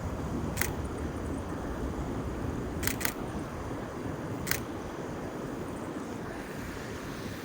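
Camera shutter firing four times: one click, then two in quick succession, then one more, as a bird is photographed. A steady low rumble runs underneath.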